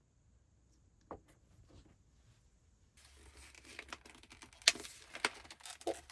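Packaging being handled and opened: crinkling and tearing rustles. A few faint taps come first, then about three seconds in the crackling turns busy and louder, with several sharp rips.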